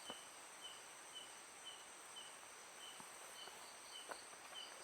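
Faint night insects: a steady high-pitched trilling, with a short chirp repeating about twice a second and a few faint clicks.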